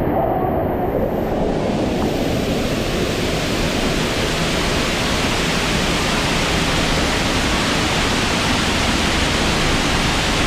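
A steady, loud rush of falling water pouring down from an overhead water feature, growing fuller and brighter over the first couple of seconds.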